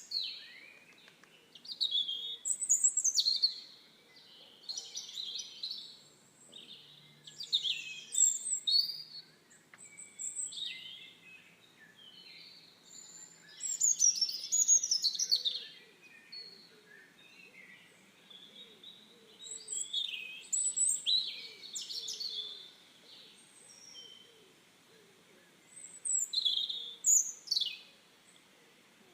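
Songbirds singing and chirping in bursts of quick, high notes a few seconds apart, with quieter gaps between.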